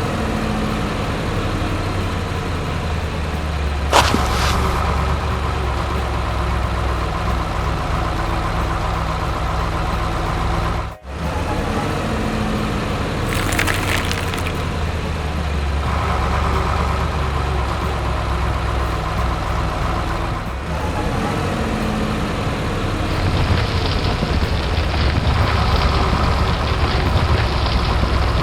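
Heavy vehicle engine running steadily, with a sharp click about four seconds in, a brief hiss about halfway through, and a break in the sound just before it.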